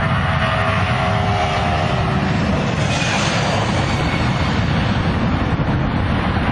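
Loud, steady engine rumble, with a faint tone gliding briefly early on.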